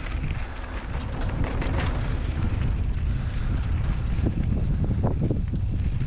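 Wind buffeting a mountain biker's camera microphone in a steady low rumble, over the rolling crunch of tyres on a dirt trail, with a few short rattles about four to five seconds in.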